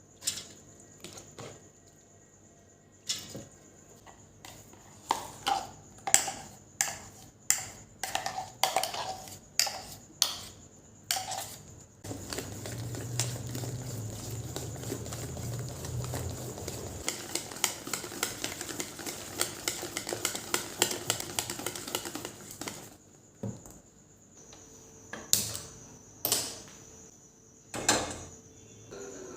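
Metal kitchen utensils and dishes clinking and knocking, a dozen or so separate strikes. About twelve seconds in comes roughly ten seconds of steady hiss with fast small ticks, with a low hum at its start. A few more clinks follow near the end.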